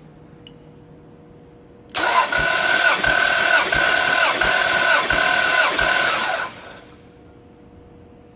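Toyota 2JZ-GTE VVT-i straight-six being cranked by its starter motor for a compression test, for about four and a half seconds. The starter whines with a slow, even beat about every 0.7 s, and the engine does not fire.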